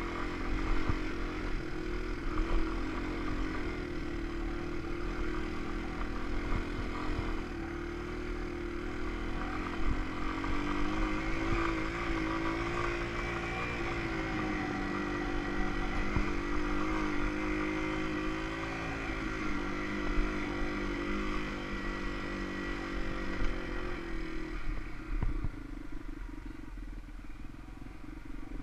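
Yamaha TW200 trail motorcycle's single-cylinder four-stroke engine running as it rides a rocky dirt trail, its pitch rising and falling with the throttle and easing off near the end.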